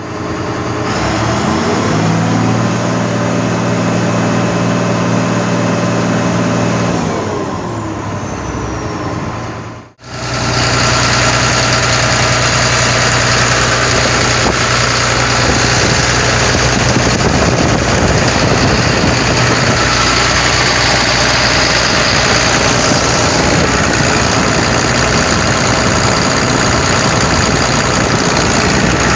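John Deere 6076 7.6-litre six-cylinder turbo diesel engine running: it picks up speed over the first couple of seconds, runs steady, then winds down with falling pitch about a quarter of the way in. After a brief break about a third of the way in, it runs steadily and louder to the end.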